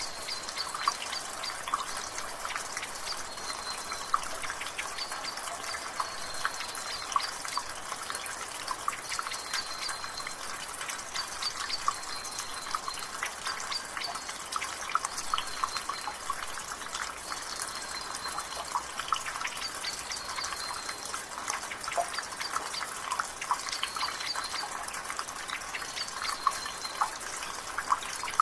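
Water dripping from a gutter in rain: quick, irregular drips over a steady hiss of rainfall. A bird repeats a short, high, flat call about every two seconds behind it.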